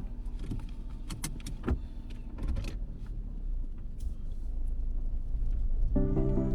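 A car running, heard as a steady low rumble, with several sharp clicks and knocks in the first two seconds.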